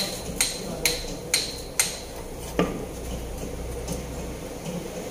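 Hand tool tapping on metal while work goes on around the Camry's replacement engine: five sharp, ringing metallic taps about twice a second, then one duller knock, over a low steady hum.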